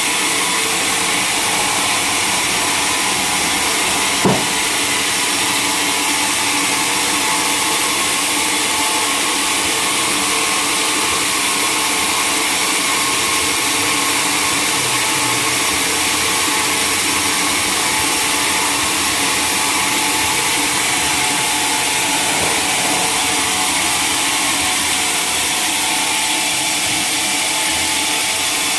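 Sawmill machinery running steadily, with one sharp knock about four seconds in.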